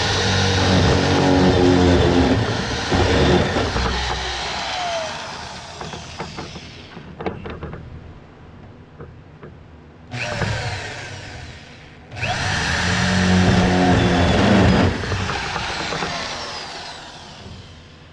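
Power drill boring holes through a wall. It runs in three spells, two long and one short, and each tails off as the drill eases.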